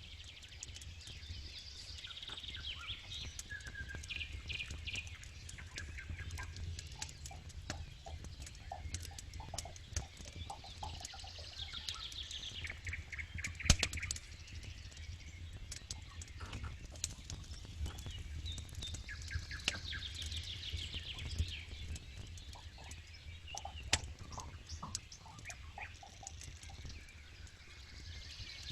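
A campfire crackling, with scattered sharp pops, the loudest about fourteen seconds in. A songbird sings a repeated trilling phrase every several seconds over a steady low rumble.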